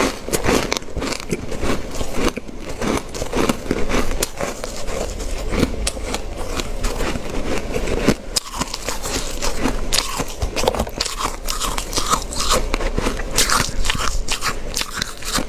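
Ice being bitten and chewed close to the microphone: a continuous run of crunching and crackling, with sharper, brighter crunches in the second half.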